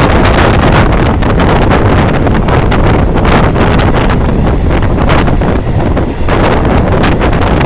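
Loud, continuous wind noise buffeting the microphone, heavy and rumbling, with a brief dip about six seconds in.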